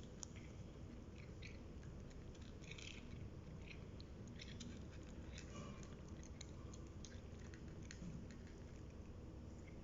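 Cats chewing and eating food: faint, irregular small clicks and smacks over a steady low background hum.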